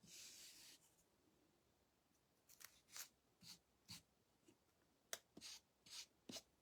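Near silence, with a brief soft rubbing at the start and faint scattered taps after, from dabbing brown Distress Archival ink onto clay birds on a board.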